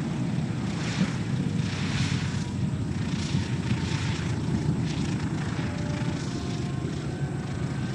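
Four radial piston engines of a B-17 Flying Fortress running steadily just after its landing, a continuous low propeller-engine rumble.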